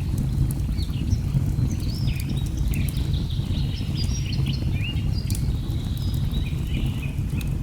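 A wood fire crackling with sharp pops, over a steady low rumble of a waterfall, while birds chirp and call throughout with short rising and falling notes.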